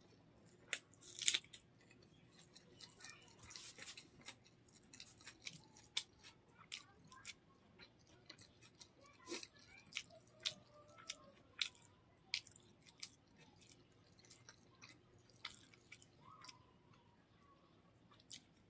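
Close-miked chewing of a mouthful of rice, a string of irregular wet mouth clicks and smacks, mixed with fingers squishing and moving rice on a banana leaf.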